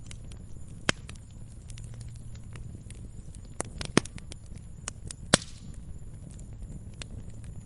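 Wood fire in a fireplace burning with a low steady rumble and scattered crackles, with sharp pops about a second in, at four seconds and a louder one near five and a half seconds.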